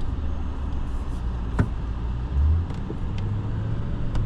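Cabin sound of a vehicle driving: steady low engine and road drone. A sharp click comes about a second and a half in, and a short low thump a second later, after which the engine note steps up slightly.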